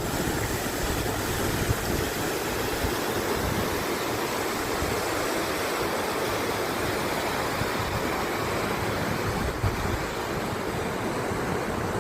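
Steady rushing road and wind noise from a moving 1979 Ford truck, with a low rumble and no distinct engine note.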